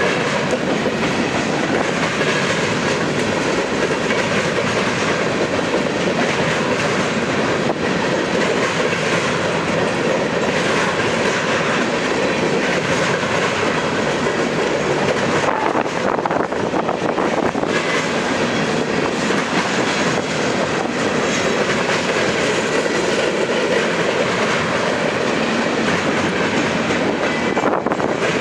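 Freight cars of a passing manifest train rolling by: a steady rumble and rattle of steel wheels on rail, with a few sharp clicks at joints.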